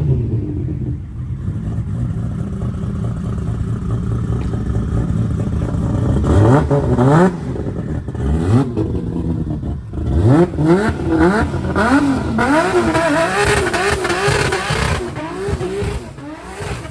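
A car engine idling, then being revved: a sharp rev about six seconds in and another about eight seconds in, then a quick run of throttle blips from about ten seconds, with the revs wavering up and down before dropping away at the end.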